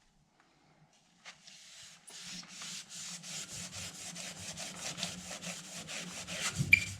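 Damp sponge coated with wood-stove ash scrubbing the stove's glass door in quick, rhythmic back-and-forth strokes, starting about a second in; the wet ash works as a cleaner, loosening the soot on the glass.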